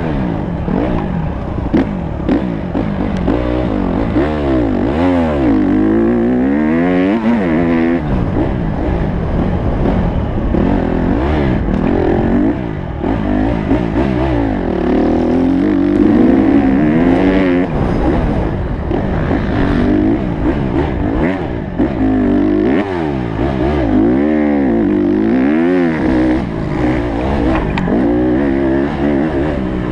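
Honda CRF150 motocross bike's single-cylinder four-stroke engine being ridden hard. The revs rise and fall over and over as the rider accelerates, shifts and backs off.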